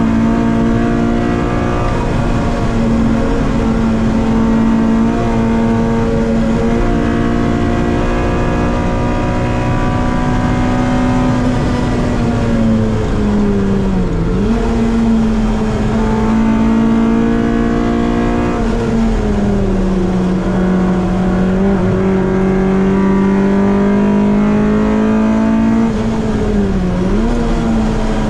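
Honda Civic race car's B-series VTEC four-cylinder engine, heard from inside the cabin, running at high revs under load. The pitch is held nearly steady, dips sharply for a moment about halfway through, drops lower a few seconds later and climbs slowly, then dips briefly again near the end.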